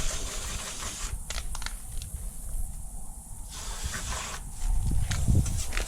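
Aerosol can of wasp spray hissing in two bursts, each about a second long, with a few sharp clicks between them.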